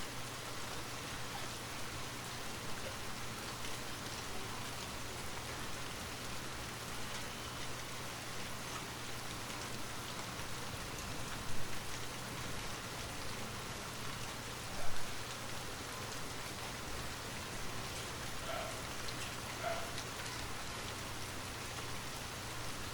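Steady rain falling, pattering on a surface, with two short, louder drop-like taps about halfway through.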